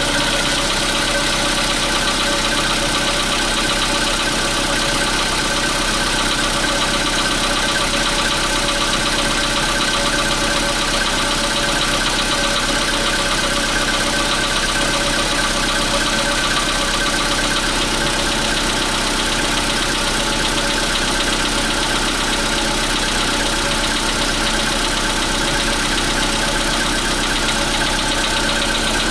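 Volkswagen Polo Sedan's 1.6-litre CFNA petrol engine idling steadily just after a cold start at about freezing, with the engine knock this motor makes while still cold.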